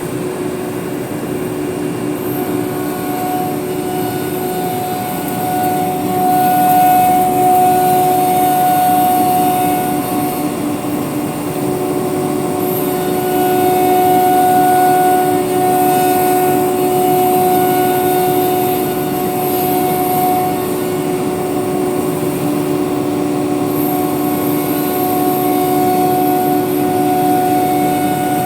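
Woodworking ATC CNC router machining a door: a steady, loud machine drone with a spindle whine whose tones fade in and out as the load changes, over a constant high hiss.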